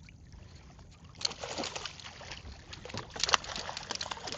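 Irregular splashing and sloshing of water with sharp knocks, starting about a second in, as a hooked fish is fought at the side of the boat.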